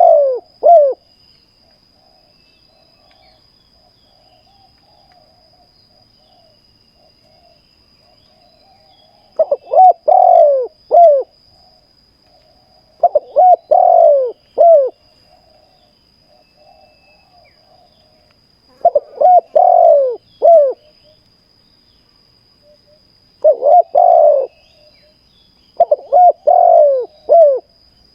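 Spotted dove cooing in repeated phrases of three or four short notes, a phrase every few seconds, with a faint low warbling between phrases. A faint steady high tone runs underneath.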